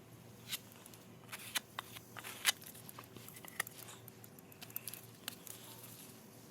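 Irregular light clicks and taps, a dozen or so scattered through, the loudest about two and a half seconds in, over a faint steady hum.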